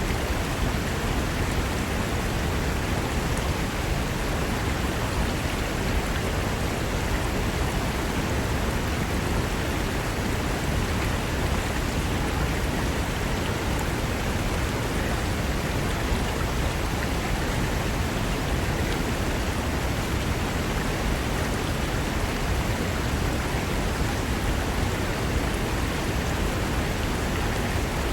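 Fast mountain river rushing over rocks: a steady, dense roar of water that holds even throughout.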